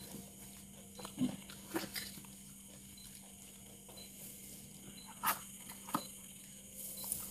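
Close-miked eating sounds of a mouthful of rice and greens being chewed: scattered wet mouth clicks and smacks, a few of them louder, over a faint steady hum.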